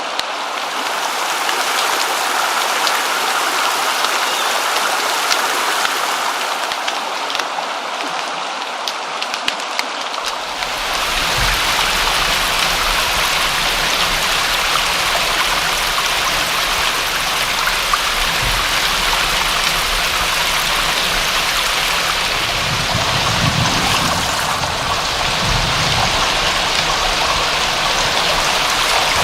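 Steady rain, with individual drops heard as scattered clicks. About ten seconds in it changes to a fuller, deeper rush of water.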